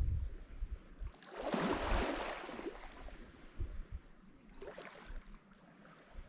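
Lake Michigan waves breaking on the shore: one larger wave washes in about a second in and fades over a couple of seconds, and a smaller one breaks near the end. Low wind rumble on the microphone at the start.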